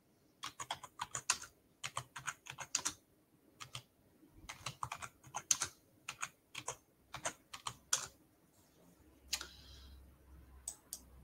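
Typing on a computer keyboard in quick runs of keystrokes, which stop about eight seconds in. A brief hiss follows about nine seconds in.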